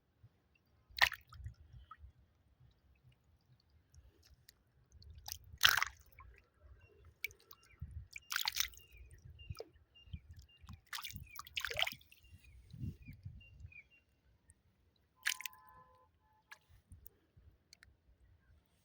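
Scattered wet slaps and splashes of water, about five sharp ones with quieter sloshing between, over a low steady rumble.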